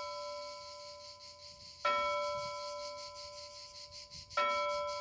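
A single church bell tolling slowly, struck twice about two and a half seconds apart, each stroke ringing out and fading before the next.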